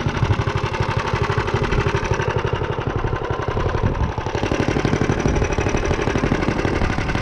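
Tillotson 212 single-cylinder four-stroke engine on a minibike running steadily, with a quick, even firing beat. Its note changes about four seconds in.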